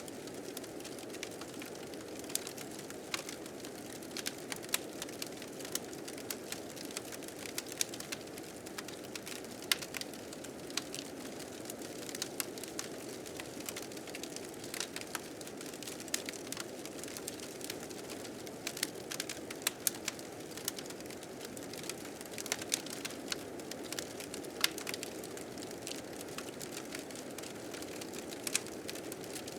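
Wood fire crackling with frequent, irregular sharp pops over the steady rush of blizzard wind.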